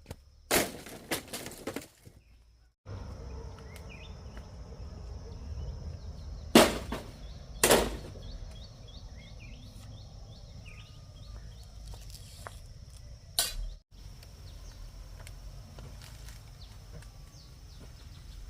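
Several loud clattering knocks of household things being handled during tidying up, over a steady high-pitched whine and faint repeated chirps.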